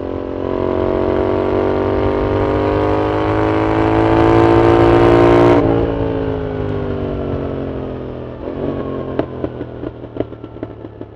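2025 Yamaha MT-07's 689 cc CP2 parallel-twin with a loud full exhaust, revs climbing steadily under throttle for about five seconds. The throttle then shuts and the revs fall away. From about eight seconds in, the exhaust crackles and pops on the overrun.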